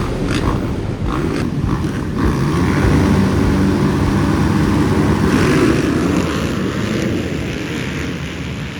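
Motocross dirt bike engines revving hard, fading away over the last few seconds.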